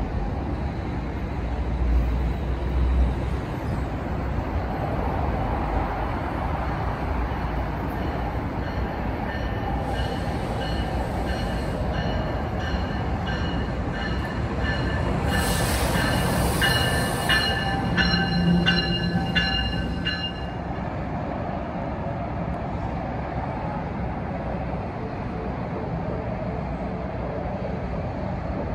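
Passenger train running past on the rails with a steady rumble; from about a third of the way in its wheels squeal with several high steady tones that stop suddenly near two-thirds through, leaving the rumble.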